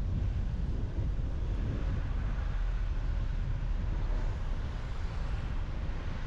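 Car driving along a road: steady low rumble of tyres and wind with no changes in speed.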